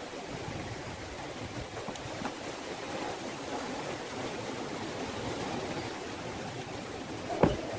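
Campfire burning in the wind: a steady rushing hiss with a few faint ticks, and one sharp crack near the end.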